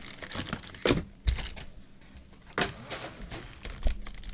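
Trading cards being handled and flipped through, with a few light clicks and slides of card stock.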